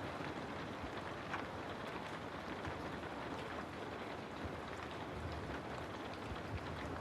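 Steady rain falling, with many scattered individual drops ticking through it.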